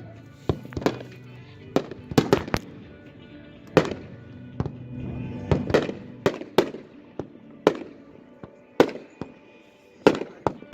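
Fireworks going off in quick, irregular succession: a string of sharp bangs and reports, some with a short ringing tail.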